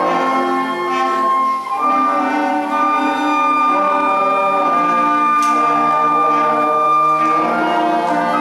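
School concert band playing a piece with sustained wind chords and changing notes, a short break about one and a half seconds in.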